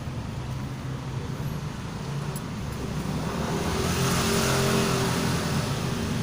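A motor vehicle engine running steadily, growing louder about four seconds in and then easing off, like a vehicle passing by.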